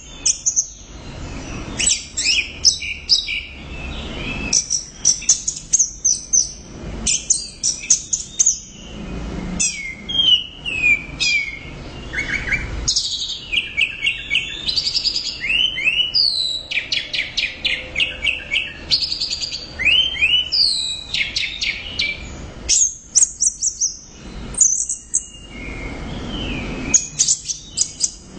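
Orange-headed thrush singing a long, varied song of high, rapid phrases: quick runs of repeated notes mixed with sliding whistles, with only brief pauses between phrases.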